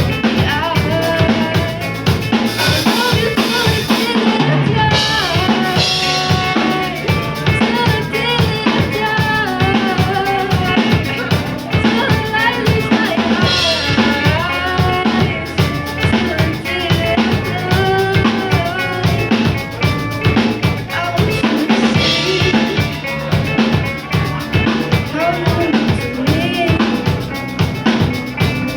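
Live band playing a song, a drum kit keeping a steady beat with bass drum and snare under a pitched melody line.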